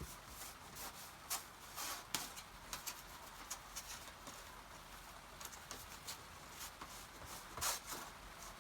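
A cloth rag wiping and rubbing in short, irregular strokes, with a few louder scrapes about two seconds in and near the end.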